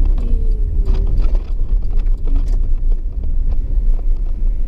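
Steady low road and engine rumble inside a moving truck's cab, with scattered light knocks and rattles.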